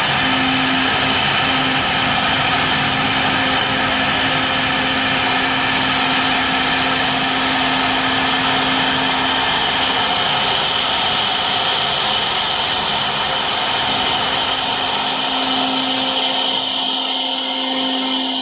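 Four-head CNC router running, its spindles giving a steady whine of several high tones over a dense cutting noise. The low part of the sound drops away near the end.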